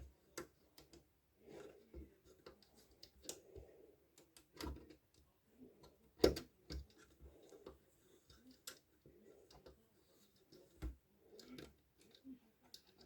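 Irregular small clicks and knocks from hands working with parts and tools, a sharper knock about six seconds in.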